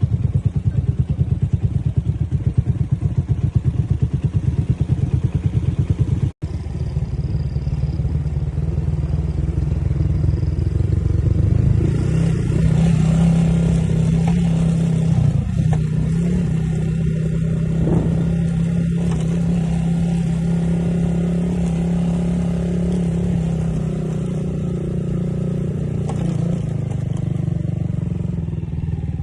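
Motorcycle engine running while being ridden. It pulses fast and evenly for the first six seconds, breaks off for an instant, then settles into a steadier, higher running note.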